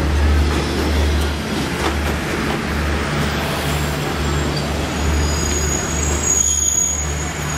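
Passenger train coaches rolling past alongside the platform: a steady rumble of wheels on the rails with a low throb that swells and fades. A thin, high squeal comes in about six seconds in.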